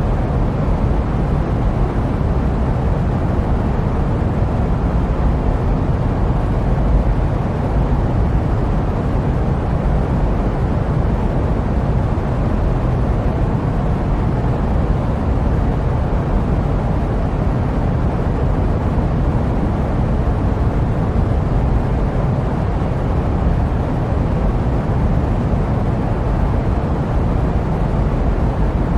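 Steady jet aircraft noise: an even, unbroken low hiss and hum with most of its weight in the bass.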